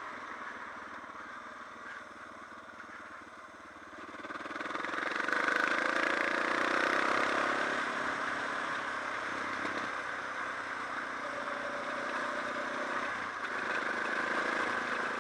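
Suzuki DR650's single-cylinder engine running as the motorcycle rides a trail, picking up revs and getting louder about four seconds in, its pitch rising and falling after that.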